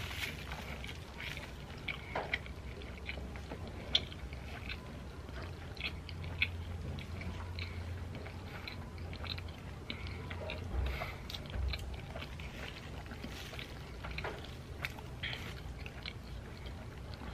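Close-up biting and chewing of a Ugandan rolex, a chapati rolled around an omelette: a run of short, irregular wet mouth clicks and smacks, with a few sharper ones, over a low steady hum.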